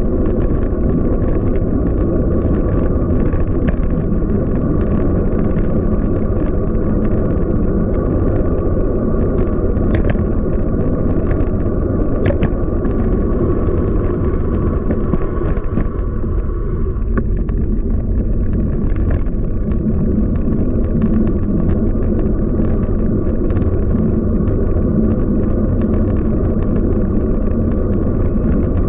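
Steady rumble of a Scott Speedster CX 20 road bike rolling over city streets, with scattered small clicks and knocks from the road surface and the bike.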